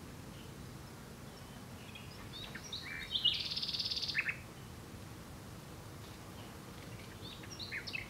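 Common nightingale singing: a phrase of a few short whistled notes runs into a fast, rattling trill about three seconds in, and a second phrase of short notes starts near the end.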